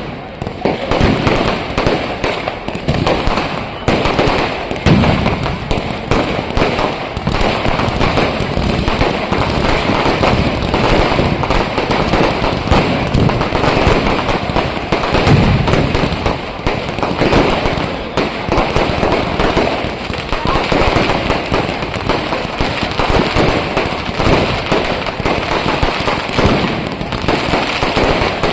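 Fireworks going off in a dense, continuous barrage of firecracker bangs and crackles, with no pause.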